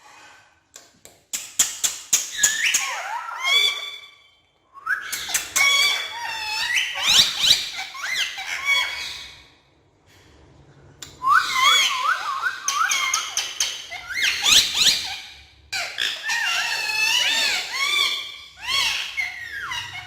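Several male Indian ringneck parakeets calling and chattering in four long bursts of sharp squawks and whistles that swoop up and down in pitch, with short pauses between.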